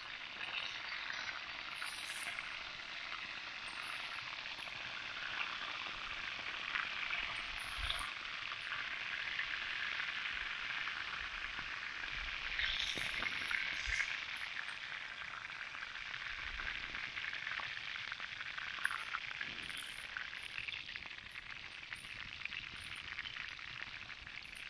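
Chicken breast fillet frying in oil in a pan over an open campfire: a steady sizzle with a few louder pops.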